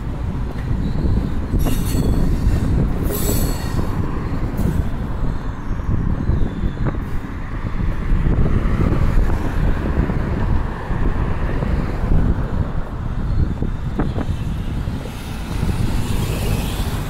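VIA Rail passenger train of Renaissance cars rolling away over the station tracks, a steady low rumble, with short wheel screeches about two and three seconds in.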